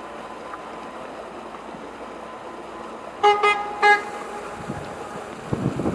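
An approaching express train sounds its horn in three short blasts, two close together and then one more, about three seconds in. A rumble starts building near the end as the train draws near.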